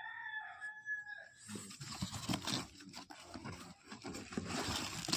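A rooster crowing, one held call that ends about a second and a half in. It is followed by a run of clattering and rustling knocks.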